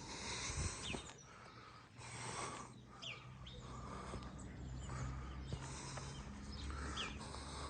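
Faint birdsong: short chirps and calls over a low outdoor background hum.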